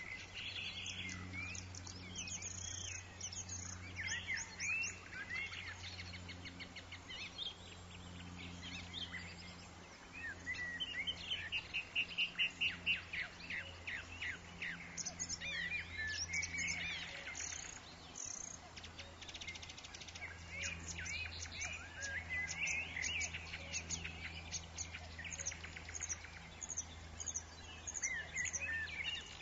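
Songbirds singing and chirping throughout, with many short rising and falling notes and a fast, even trill about twelve seconds in, over a steady low hum.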